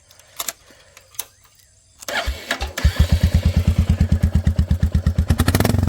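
Royal Enfield Classic 350 Reborn's single-cylinder engine started with the silencer removed: cranked briefly about two seconds in, it catches and idles with a loud, even open-pipe beat.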